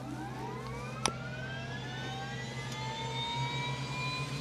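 Number two turboshaft engine of a twin-engine helicopter being started: the turbine spools up with a whine of several tones rising in pitch and levelling off. A sharp click about a second in, over a steady low hum.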